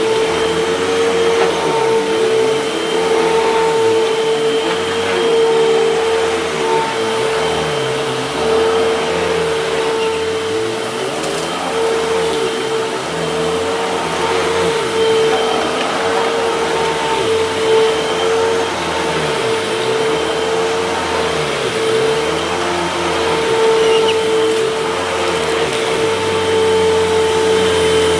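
Hoover vacuum cleaner running steadily with a high motor whine, a lower note rising and falling about once a second. Suction is pulling debris through into its canister with the clog cleared from the hose.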